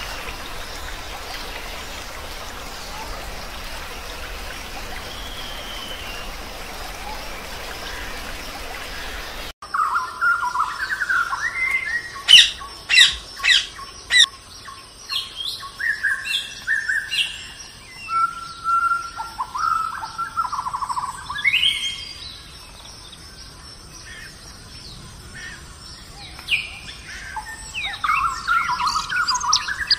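A steady, even hiss for about the first ten seconds. Then, after an abrupt cut, an amazon parrot gives loud, irregular squawks and shrill calls.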